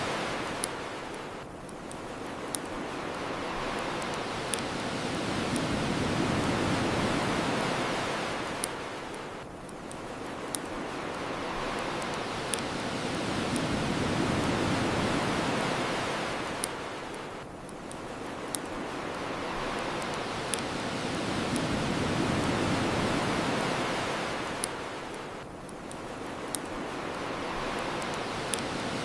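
Ocean waves washing onto a shore, swelling and falling back about every eight seconds, with the scattered sharp pops and crackles of a bonfire.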